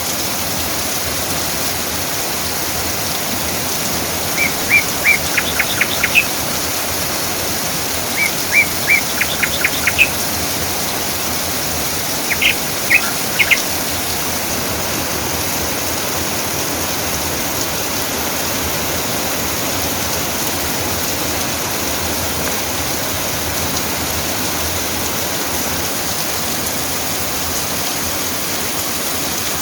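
Steady rain falling, with a songbird calling three short bursts of quick, high notes a few seconds apart in the first half.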